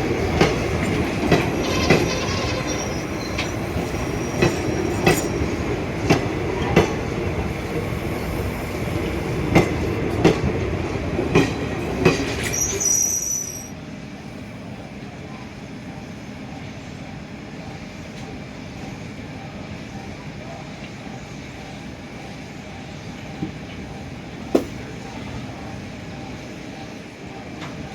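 Railway coach wheels running over the track, heard on board: a loud rumble with sharp clicks from the rail joints and a brief high-pitched wheel squeal near the start and again just before the midpoint. About halfway through, the sound drops abruptly to a quieter steady rumble with a couple of faint knocks.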